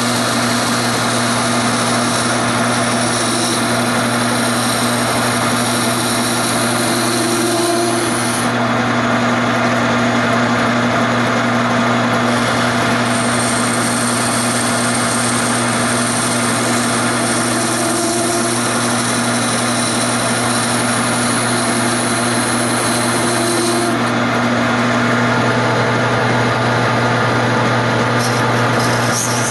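Wood lathe running with a tool rasping against the spinning wood of a chair leg. A steady motor hum lies under the scraping, which changes in brightness every few seconds as the cut shifts.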